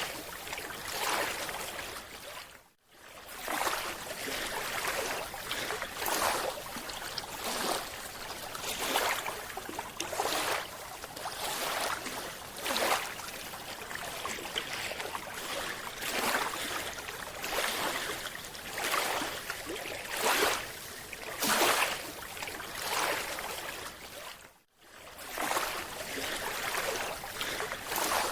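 Scuba diver's breathing through the regulator underwater: bubbly rushing surges repeating every second or two, cutting out briefly twice.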